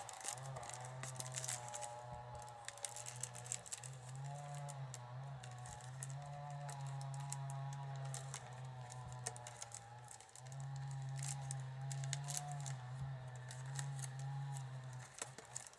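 Soaked wicker rods clicking and crackling in the hands as they are woven into a basket, over a steady low hum and a faint wavering tone.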